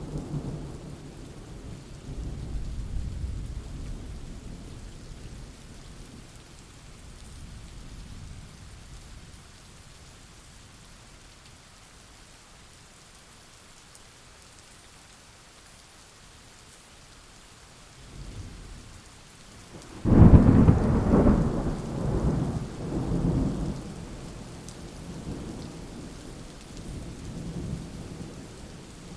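Thunderstorm with steady rain: thunder rumbles and fades, then after a quiet lull with only the rain, a sudden loud thunderclap about two-thirds of the way in that rolls off in low rumbles.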